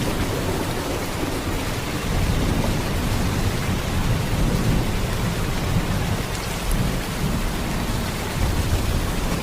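Steady heavy rain pouring down in an even hiss, with a deep, constant rumble beneath it and no separate thunderclaps.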